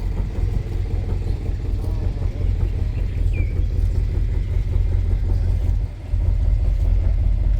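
Low, steady rumble of a car engine running, with people talking in the background; the rumble drops briefly about six seconds in.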